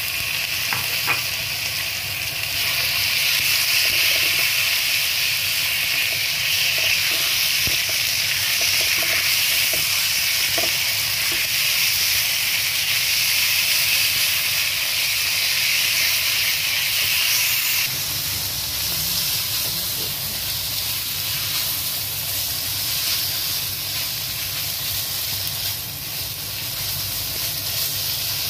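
Sliced chicken breast and red onion sizzling in a nonstick frying pan, stirred with a spatula. A steady hiss that eases a little about two-thirds of the way through.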